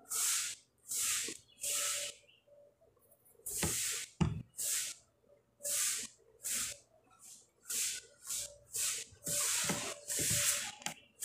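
Close-miked chewing of buttered French bread: a run of short, wet, hissy mouth smacks, roughly two a second. There is a short pause about two and a half seconds in and a soft knock about four seconds in.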